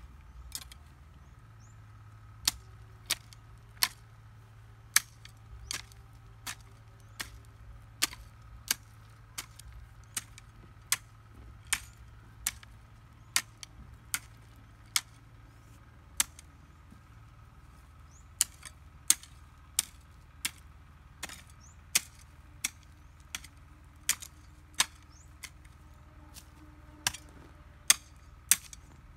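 Sharp chopping strikes repeated at a steady pace, about three every two seconds, with a faint low hum underneath for the first half.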